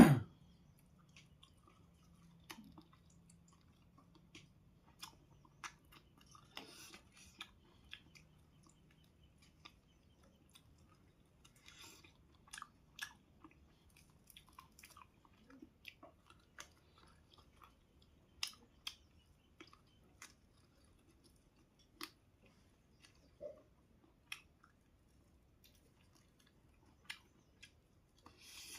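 Close-miked chewing and eating: irregular wet smacks, clicks and small crunches of a person eating, with a louder burst right at the start.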